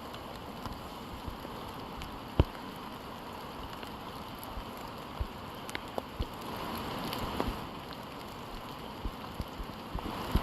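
Steady rain falling in forest, with scattered sharp drips striking close by, one louder drip about two and a half seconds in.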